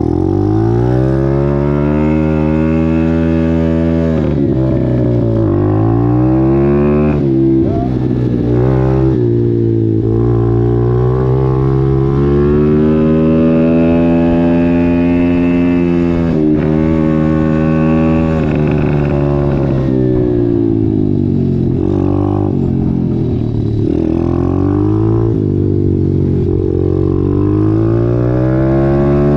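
125cc dirt bike engine being ridden, its revs repeatedly climbing and then dropping back as the throttle is worked.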